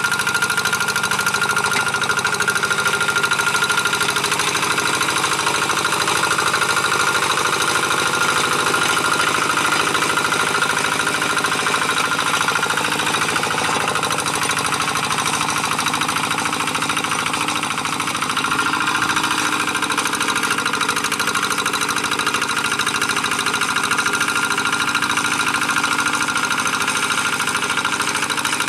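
Single-cylinder diesel engine of a Quick G1000 two-wheel hand tractor running steadily under load while pulling a moldboard plough through dry paddy soil, its rapid firing knock constant with a steady whine above it. The level dips briefly about two-thirds of the way through.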